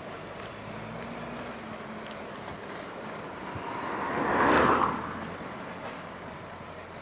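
A car passing a moving bicycle, its noise swelling to a peak about four and a half seconds in and then falling away quickly, over steady wind and riding noise.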